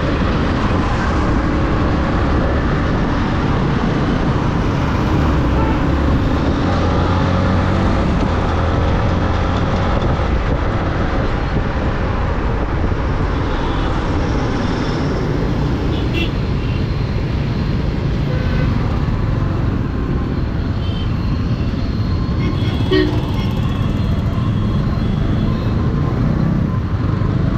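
Yamaha MT-15's single-cylinder engine running under way in city traffic, with steady road noise. Short horn toots from other vehicles sound a few times, one about two-thirds of the way in.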